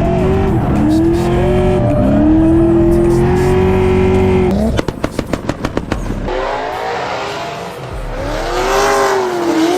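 Drift car engine revving hard, its pitch rising and falling. About five seconds in it breaks into rapid stuttering pulses, about eight a second, then revs up and down again over a hiss of tire squeal.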